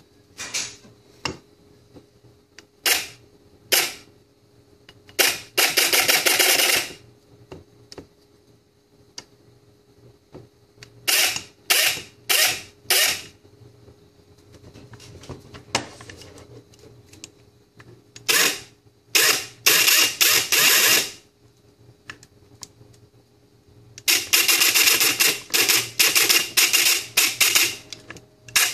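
A&K PTW airsoft electric rifle with an SHS motor firing, first single shots, then rapid full-auto bursts, the longest lasting about four seconds near the end.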